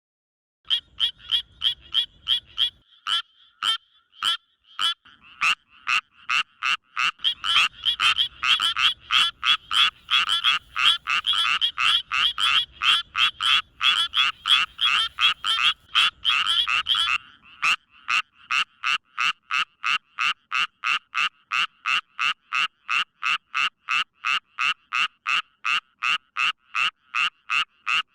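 Frogs calling: a series of short, sharp croaks repeated in quick succession. Several frogs overlap in a dense chorus from about seven seconds in, and near seventeen seconds it thins to one frog's steady series of about two to three croaks a second.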